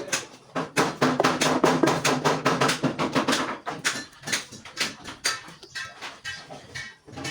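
A quick run of sharp knocks or taps, about four to five a second. A steady pitched tone lies beneath them for the first few seconds.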